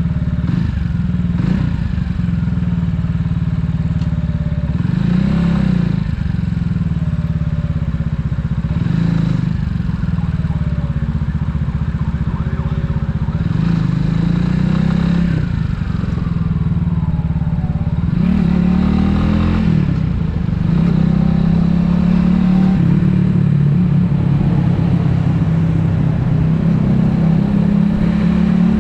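Italika 250Z motorcycle's single-cylinder engine running under way, its revs rising and falling several times.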